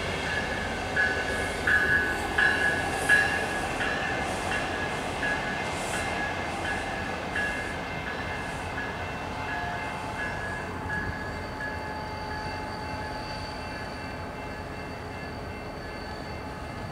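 Electric commuter train moving through a rail yard with its bell ringing in an even, steady beat, about three strikes every two seconds, over the rumble of the train. The bell is loudest in the first few seconds and fades away after about ten seconds, leaving the steady rumble.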